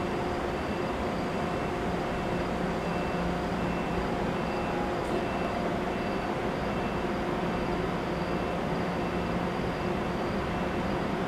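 NJ Transit push-pull commuter train with a Comet V cab car, standing at the platform with its equipment giving a steady, even hum of several low tones. A faint high tone pulses on and off throughout.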